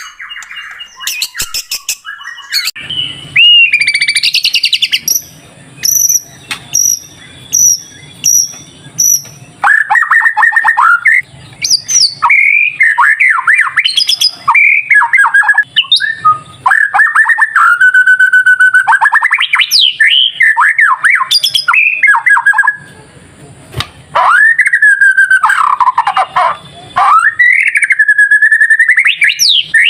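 White-rumped shama (murai batu) singing a loud, varied song of whistled phrases and rapid trills. A run of short, high repeated notes comes a few seconds in, then longer whistles sliding up and down.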